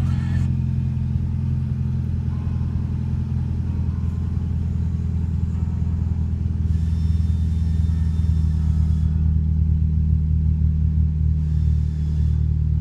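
Nissan MR20DE 2.0-litre four-cylinder petrol engine idling steadily, with an even low running sound.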